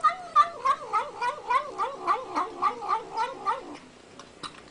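A cat yowling in one long warbling call whose pitch wavers up and down about three times a second, fading out about three and a half seconds in.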